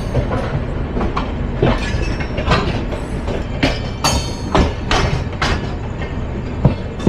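Express train running at speed: a steady rumble of wheels on rail, broken by irregular sharp clacks as the wheels cross rail joints.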